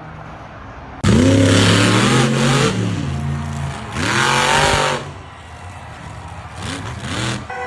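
Monster truck engine revving hard in bursts: a sudden loud one about a second in, another around four seconds, and a shorter one near the end, the pitch rising and falling with each rev.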